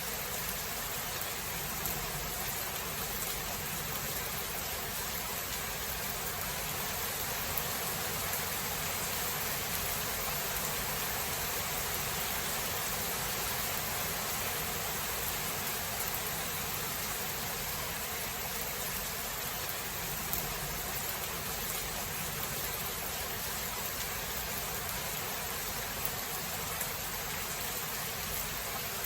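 Steady rain falling, an even hiss with no clear thunderclap.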